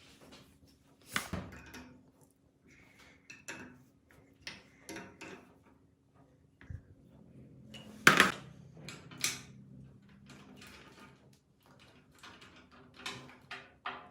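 Scattered knocks, clinks and scrapes of metal parts and tools being handled on a workbench, the loudest knock about eight seconds in, over a faint steady hum.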